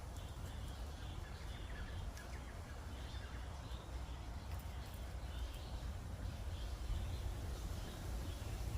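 Faint birds chirping on and off over a steady low rumble.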